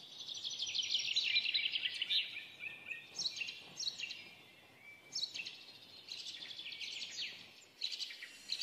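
Small birds chirping in rapid trilled phrases, each about a second long with short pauses between them.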